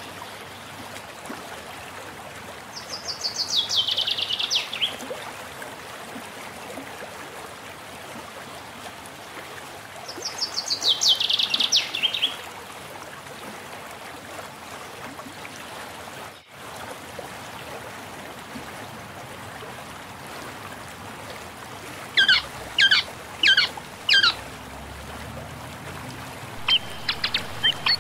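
Birds singing over a steady background hiss: a descending trill about two seconds long heard twice in the first half, then a quick run of four loud chirps a little after twenty seconds and more chirps near the end.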